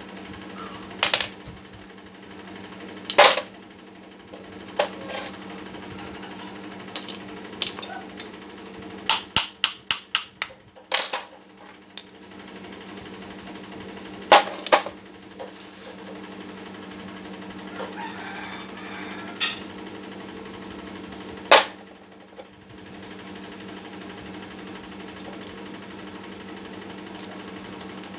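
Scattered clicks and knocks of hand tools and metal parts being handled during work on an air impact wrench, with a quick run of about six taps around nine to ten seconds in. A steady low hum sits under it all.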